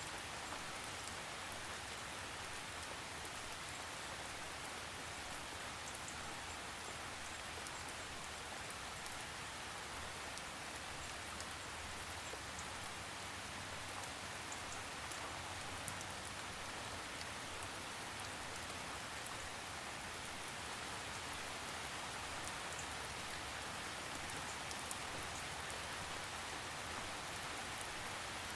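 Steady rain falling, an even hiss with many fine drop ticks, no thunder.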